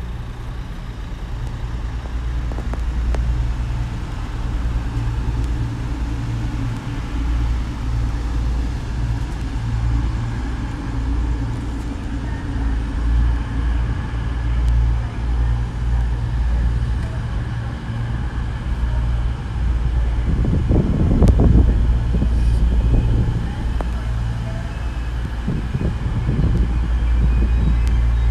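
Passenger train running past on the line beside the station, a steady low rumble that grows louder and more uneven about two-thirds of the way through.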